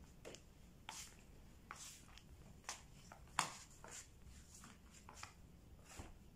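Faint handling noise: scattered soft clicks and rustles, the sharpest a single tap about three and a half seconds in.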